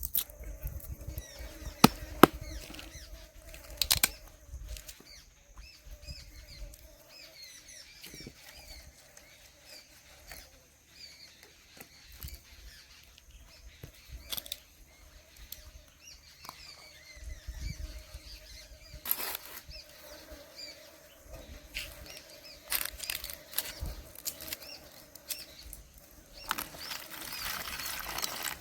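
Birds chirping in the open air, with scattered sharp knocks and clicks of handling, the loudest a few seconds in.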